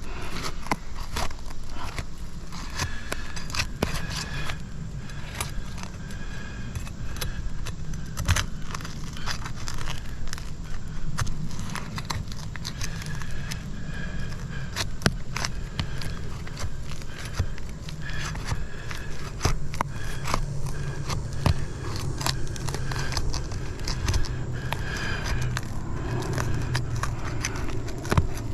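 Brittle, thin-matted asphalt roof shingles being gently pried and lifted by hand and tool, scraping and crackling with many small sharp clicks throughout, over a steady low hum.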